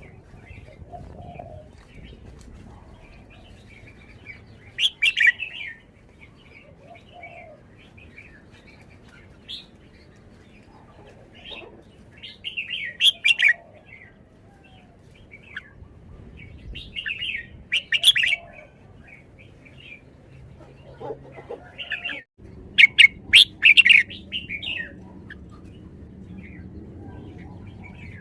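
Red-whiskered bulbul singing: bursts of short, bright, whistled notes come in four loud phrases, with quieter chirps between them.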